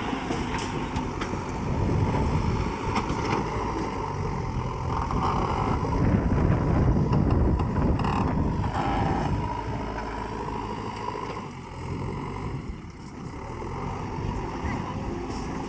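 A heavy vehicle's engine running, with wind noise on the microphone. The sound swells and eases, and dips briefly late on.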